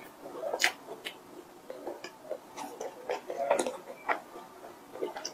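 A person chewing a soft filled bread bun with the mouth closed: irregular wet clicks and lip smacks, several a second.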